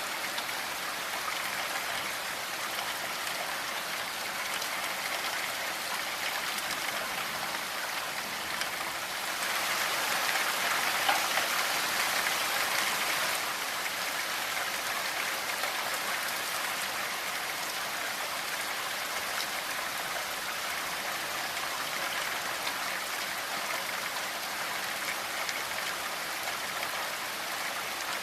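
Steady rainfall, an even hiss of drops with no thunder, swelling a little for a few seconds near the middle.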